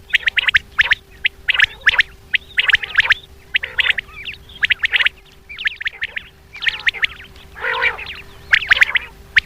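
Common quail calling in quick bursts of rapid, repeated high notes, the bursts separated by short pauses, over a faint steady hum.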